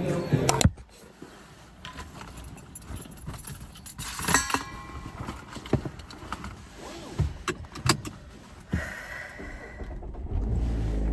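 Keys jangling, with scattered sharp clicks and knocks, the loudest cluster about four seconds in. A low rumble sets in near the end.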